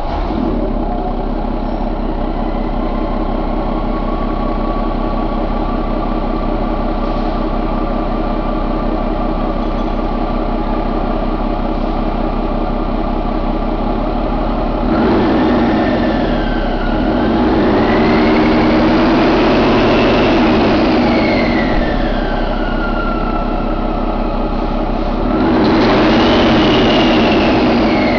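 2015 Paccar MX13 inline-six diesel engine idling steadily, then revved up and let back down about halfway through and again near the end.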